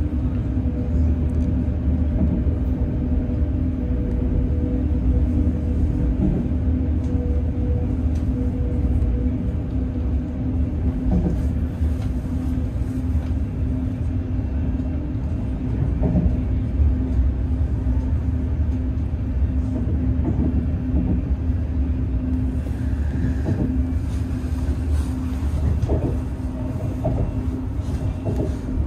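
Chinese high-speed train running at speed, heard from inside the passenger carriage: a steady low rumble with a constant hum over it and a few faint knocks along the way.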